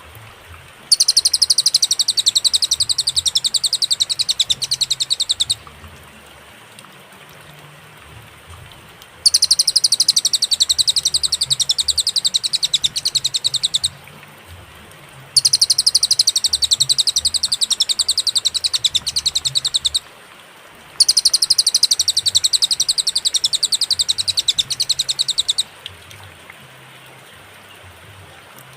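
Cililin singing: four long bursts of a very fast, high-pitched trill of rapidly repeated notes, each lasting about four to five seconds, with pauses of a few seconds between them, over a faint steady hiss.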